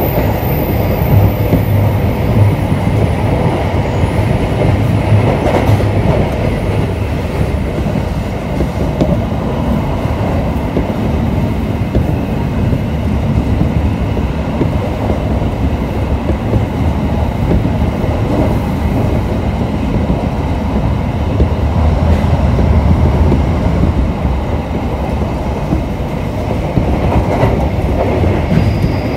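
Steady running noise of a JR Kobe Line commuter train at speed, wheels on the rails heard from inside the carriage.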